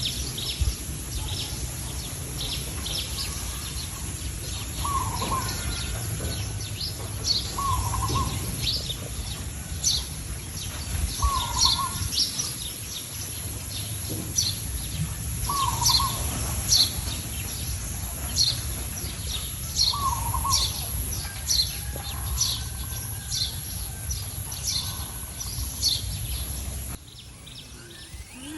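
Birds chirping over and over, with a lower short call every few seconds and a steady low rumble underneath; it all drops away suddenly near the end.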